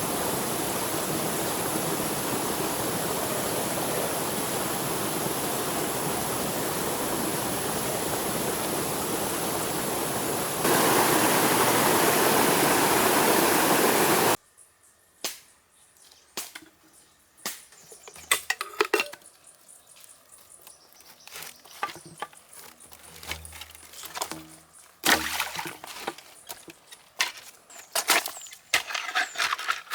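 Stream water rushing steadily, louder about 11 s in, then cutting off suddenly about halfway through. Scattered light knocks and clicks follow against a quiet background.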